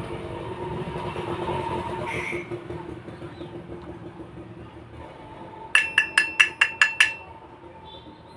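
Seven quick, ringing metallic taps, about five a second, about six seconds in, like a small hammer striking metal while the exhaust fan motor's shaft bush is worked on. They come over a low steady hum and background noise.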